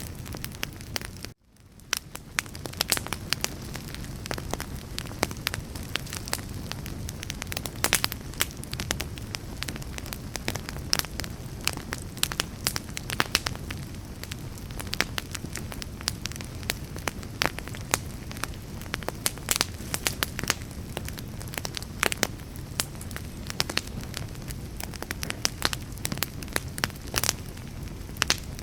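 Wood fire burning, with steady crackling and popping over a low rumble. About a second in, the sound cuts out briefly and fades back in.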